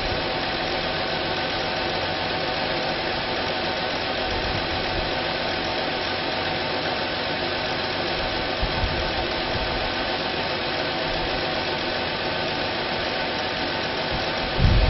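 2007 Chevrolet Equinox's 3.4-litre V6 engine running steadily at idle.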